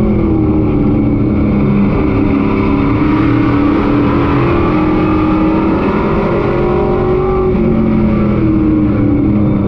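Pro truck race engine heard from on board at full race speed, its pitch dropping as the throttle is lifted and climbing again on acceleration, twice over, the pattern of laps with corners and straights.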